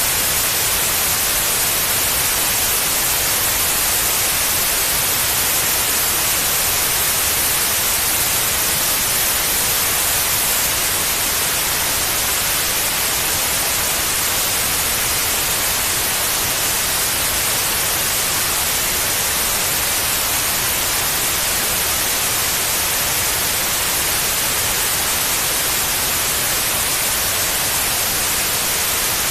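Steady white noise: an even, unbroken hiss, strongest in the treble, used as a sleep sound for babies.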